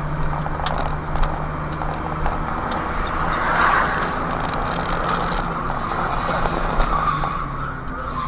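Car on the move: steady engine hum under road and tyre noise, the noise swelling briefly about three and a half seconds in.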